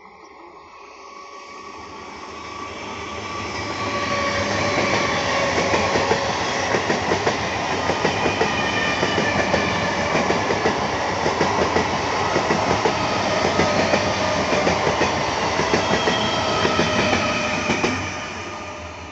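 Electric multiple unit (EMU) local train passing close by. Its sound builds over the first few seconds, then runs loud with a rhythmic clatter of wheels over rail joints, and falls away quickly near the end as the last coach goes by.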